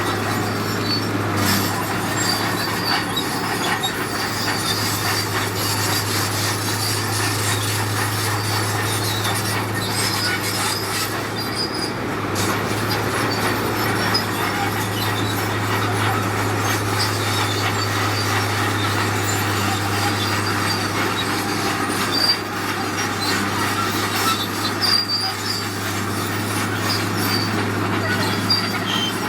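Heavy earthmoving machinery working: a steady diesel engine drone, with brief high metallic squeals coming and going throughout.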